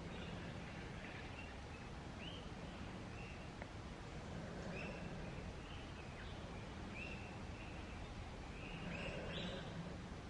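Forest ambience with a bird calling over and over: short, high notes that each rise and then level off, about one a second. They come a little thicker near the end.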